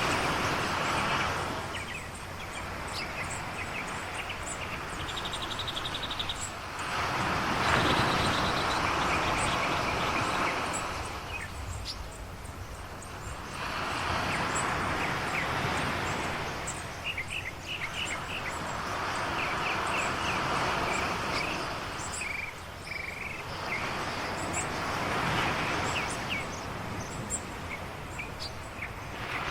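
Ocean waves washing onto a shore, the rushing noise swelling and easing every six or seven seconds, with small birds chirping over it.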